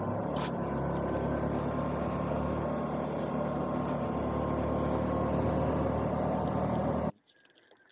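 Yamaha R15 motorcycle engine running steadily under way, its note mixed with a steady rush of riding noise. It cuts off abruptly about seven seconds in.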